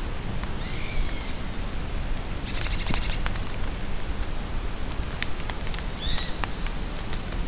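Steady rain falling in a forest, with scattered drips, while songbirds call: a short phrase about a second in, a fast buzzy trill around three seconds, a few high notes after it, and another call near six seconds.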